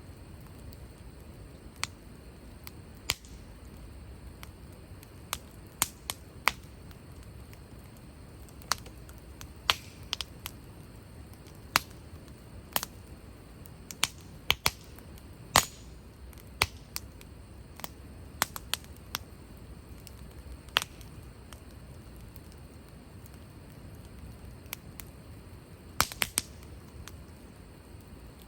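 Wood fire crackling: irregular sharp pops of burning wood every second or two, with a quick cluster of pops near the end, over a low steady rumble.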